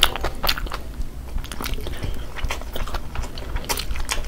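Close-miked chewing and biting of chicken fried noodles by two people eating, heard as many short, irregular mouth clicks and smacks.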